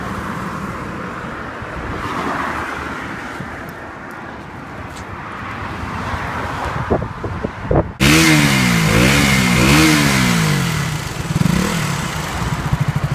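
A steady rushing noise of road traffic, then a sudden cut to a KTM Duke motorcycle engine being revved up and down several times and settling into a fast, pulsing idle. This is the engine that has blown with a cracked piston.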